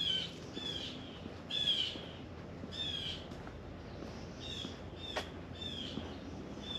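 A bird calling over and over, short notes that slide down in pitch, repeated roughly once a second. A single sharp click about five seconds in.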